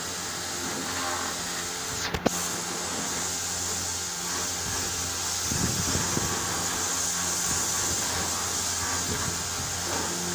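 A steady machine hum with a steady hiss over it, and one sharp click about two seconds in.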